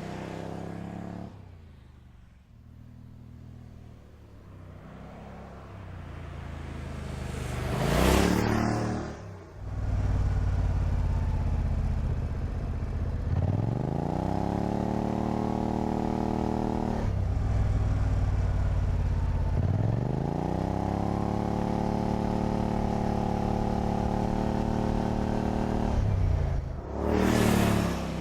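Car engine running under acceleration, its pitch climbing twice and then holding steady, with a car rushing past loudly twice.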